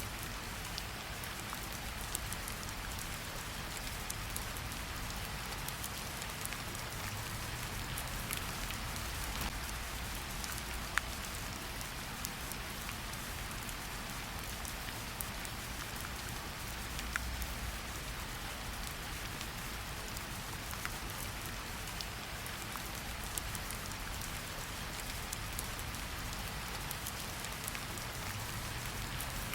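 Steady rain falling in a forest: an even hiss of rain with many scattered drop ticks, patters and splashes.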